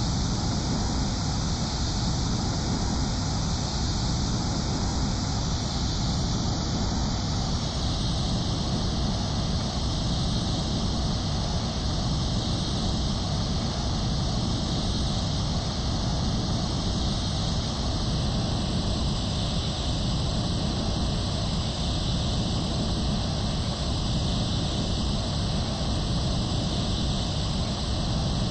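Steady, unchanging roar of an Airbus A320 airliner: jet engine and rushing air noise at a constant level.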